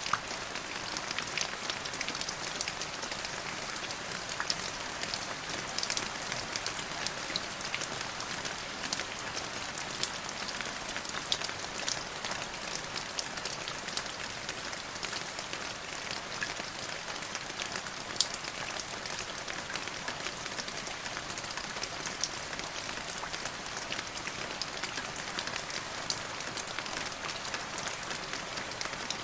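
Steady rain: a continuous hiss with many sharp individual drop impacts ticking throughout.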